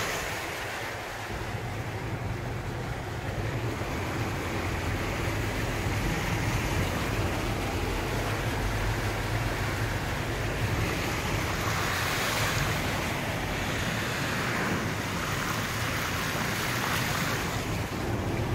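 Steady road and engine noise of a moving car heard from inside: a low rumble under an even hiss that swells twice in the second half.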